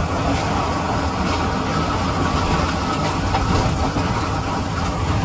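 Strong storm wind blowing hard and buffeting the microphone, a steady dense rumble with a deep low boom underneath.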